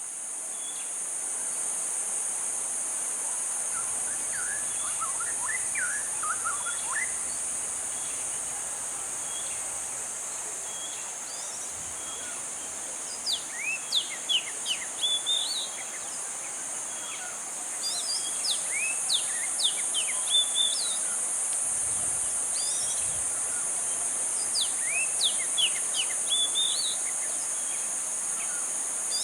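A steady, high-pitched drone of insects, with birds chirping over it in several short bursts of quick, falling notes.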